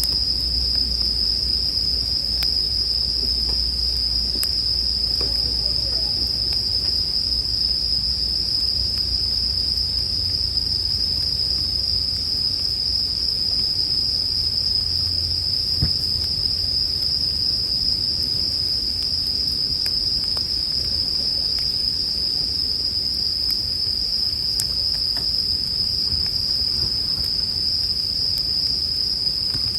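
Japanese bell crickets (suzumushi) singing in a continuous high-pitched ringing chorus, with a few faint crackles from a campfire.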